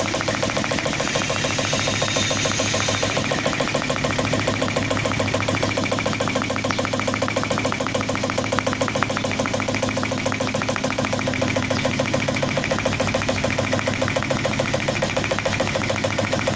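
CNC oscillating (vibration) knife cutting leather: the blade's rapid reciprocating stroke makes a steady, even machine chatter over a low hum.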